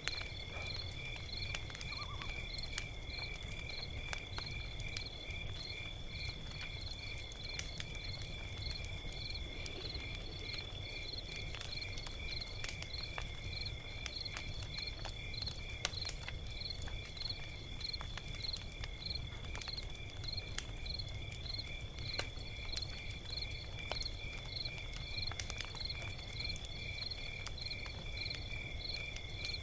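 Log fire crackling with scattered sharp pops over a low rumble, while crickets chirp steadily in a regular rhythm behind it.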